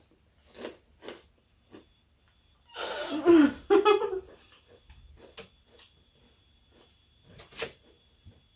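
Close-miked chewing and crunching of food: a few short, separate crunches spread through, with one brief voiced sound from a person just before the middle, the loudest moment.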